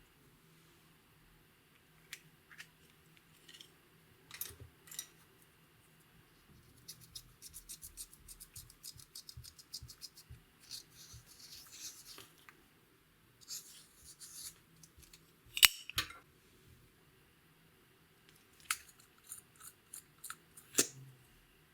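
Clear slime being handled and mixed: scattered sticky clicks and crackles, a run of quick small clicks in the middle, and one sharper, louder click about two-thirds of the way in.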